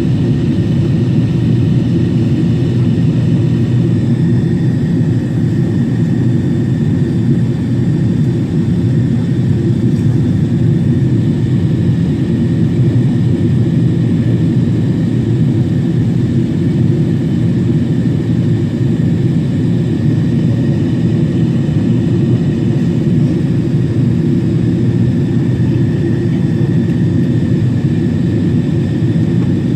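Steady low noise of a Boeing 777-300 in flight, heard from inside the cabin: jet engines and rushing air, with faint steady whines above it and no change in level.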